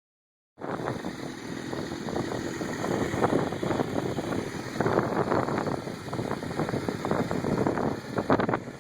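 2006 Suzuki GSX-R1000's inline-four engine running through a Yoshimura TRS exhaust, a rough, uneven exhaust note that swells in loudness several times. It starts about half a second in.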